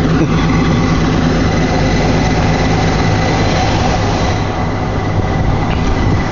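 Vehicle engine idling with a loud, steady low drone.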